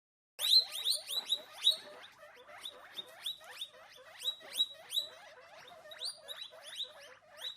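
An animal squeaking rapidly: a run of short, high squeaks, each falling in pitch, several a second, loudest in the first couple of seconds.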